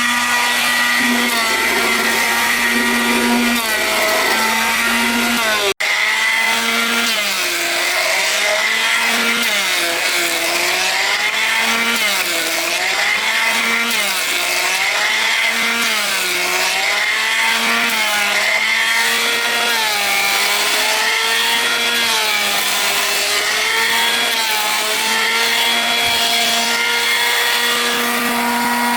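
A power woodworking machine's motor running and cutting into wood. Its pitch dips and recovers about every two seconds as it bogs under load, then it runs at a steady pitch near the end.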